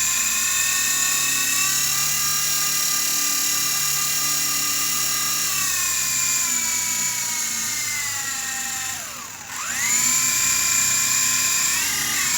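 Small electric RC helicopter's motor and rotor whining steadily while held in the hand, running normally. The pitch eases down over a few seconds, drops almost to a stop about nine seconds in, then quickly spins back up.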